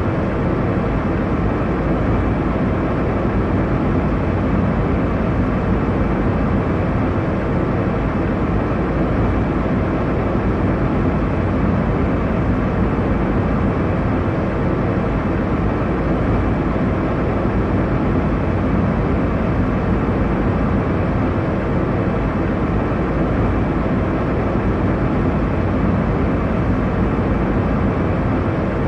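Airliner cabin noise in flight: a deep, even rushing drone that holds steady with no changes.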